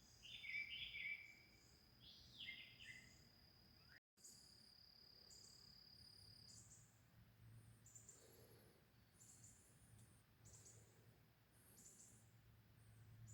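Faint birds chirping for the first few seconds over a steady high insect whine that stops about six seconds in, while short high insect chirps repeat about once a second.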